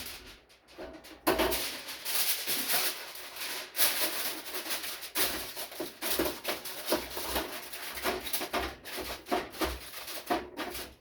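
Reynolds Wrap aluminium foil being pulled off the roll, torn and crinkled, a crisp, irregular rustle with many sharp crackles, starting about a second in.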